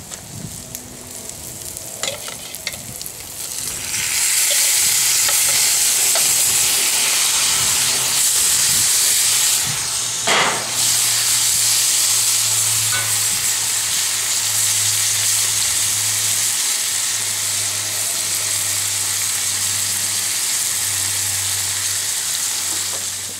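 Dove meat and onions and peppers sizzling in hot oil in a cast iron skillet on a gas burner. The sizzle gets much louder about four seconds in as the meat goes back into the pan, and a spatula scrapes and stirs, once sharply near the middle.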